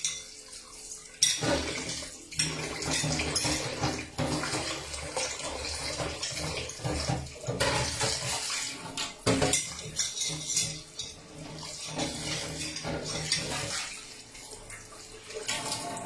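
Water running from a kitchen tap into a sink, with scattered knocks and clatter of dishes or utensils. It starts abruptly about a second in and eases off near the end.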